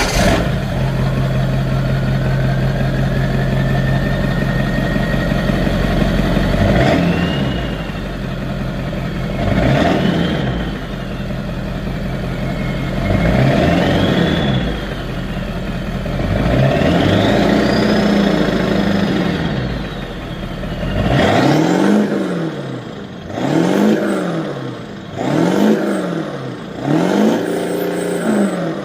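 Ford F-250's 7.3-litre V8 running just after start-up, idling with a whine that climbs over the first few seconds. It is then revved four times, a whine rising and falling with each rev, and given four short, quick revs near the end.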